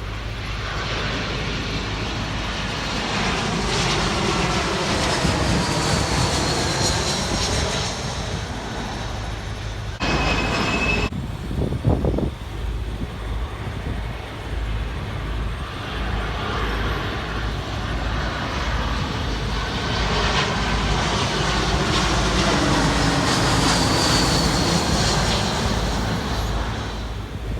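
Large jet airliners passing on landing approach, their engine whine rising and then falling in pitch as each goes by; two passes, separated by an abrupt break about ten seconds in.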